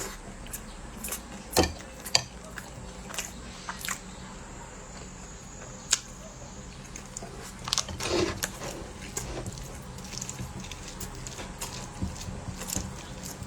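Close-miked eating sounds of chewing bread filled with chocolate-mixed rice: scattered soft mouth clicks and smacks. There is a sharper click about a second and a half in and another near six seconds, and a short cluster of chewing about eight seconds in.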